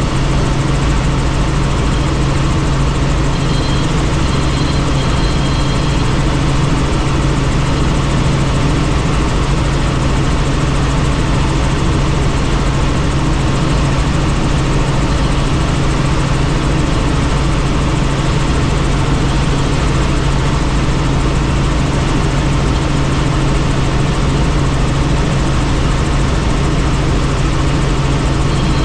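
Helicopter in flight heard from on board: a loud, steady drone of engine and rotor with a constant low hum, mixed with rushing air noise.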